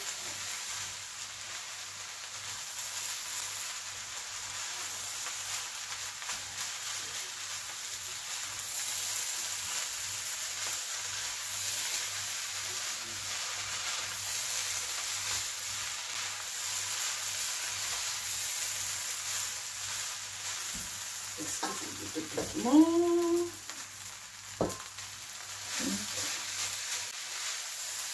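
Prawn fried rice sizzling in a stainless steel pan as it is stir-fried with a spatula, a steady hiss of frying with stirring and scraping, on heat high enough that the rice is drying out quickly. About two-thirds of the way through comes a brief pitched sound that rises then falls, the loudest moment, followed by a few sharp knocks.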